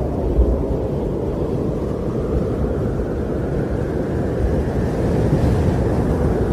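Winter wind blowing steadily in a deep rumble, swelling a little in gusts.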